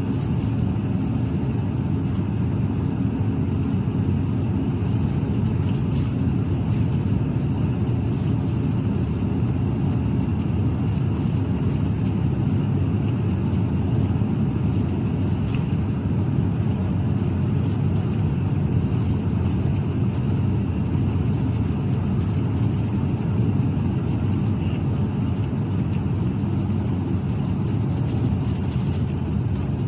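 Steady engine and road noise inside the cabin of a moving police car, an even low rumble with no breaks.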